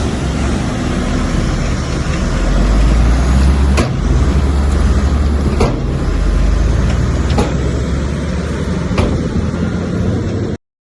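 Heavy earthmoving machine's diesel engine running steadily with a deep rumble, with sharp knocks about every second and a half to two seconds. The sound cuts off suddenly near the end.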